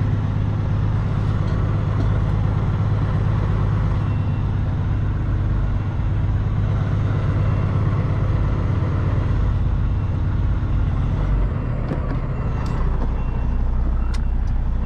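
Semi truck's diesel engine idling with a steady low drone, with a few light clicks near the end.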